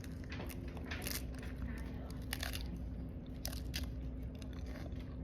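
A person biting and chewing crunchy food close to the microphone, with irregular crunches about a second apart over a steady low hum.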